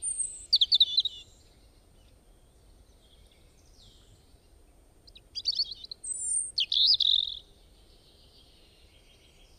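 Small birds chirping in two short spells of quick, high-pitched calls: one right at the start and another from about five to seven and a half seconds in, with faint steady background hiss between.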